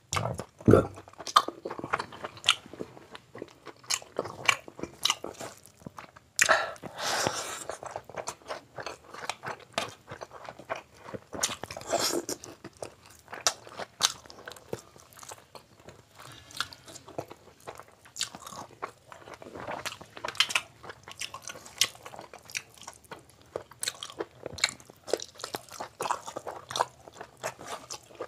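Close-miked chewing of mouthfuls of chicken and mutton biryani and curry eaten by hand: wet smacking and irregular clicks, with no break.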